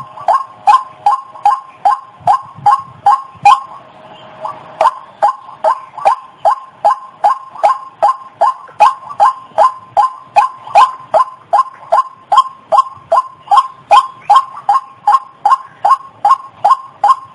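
White-breasted waterhen lure call: a long run of short, loud, repeated notes, about three a second, with a brief break about four seconds in.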